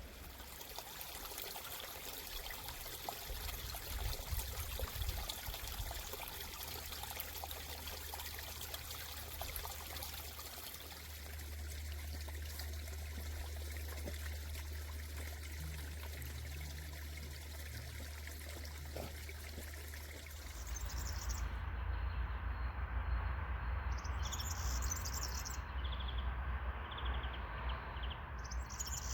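Water of a mountain stream trickling and splashing over a steady low rumble. In the last third, birds chirp in short calls.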